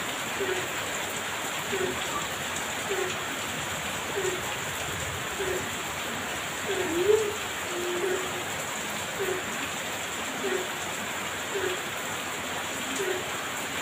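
Heavy rain falling steadily. Through it, a short low call repeats about once every second and a quarter, with one longer call about halfway through.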